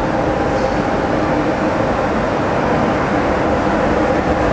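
TGV high-speed train rolling slowly along a platform as it arrives, a steady rumble with a few held humming tones.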